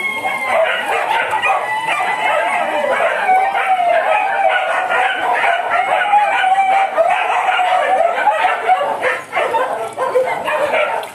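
Many animals calling at once, a dense and continuous chatter of overlapping calls.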